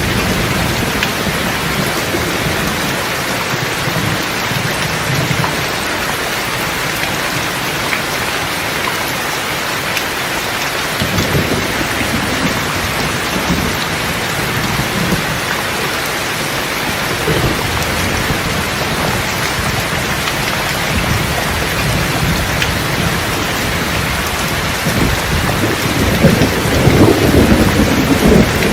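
Steady rain falling with rolls of thunder rumbling low in the background, the loudest roll building near the end.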